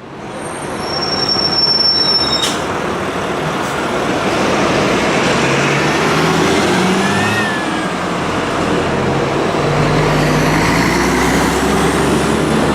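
Scania-chassis coach bus's diesel engine running as the bus moves, its pitch shifting, with a sharp click about two and a half seconds in and a brief high squeal rising and falling around seven seconds.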